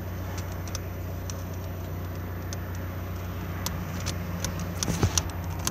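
Car engine idling with a steady low hum, heard from inside the cabin, with light metallic clicks and jingles picking up over the last two seconds.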